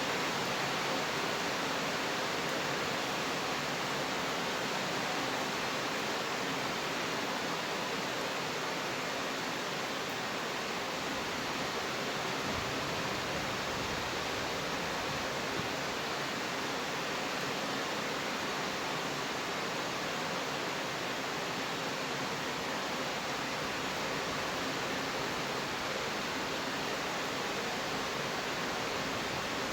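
Steady rainfall: an even, unchanging hiss.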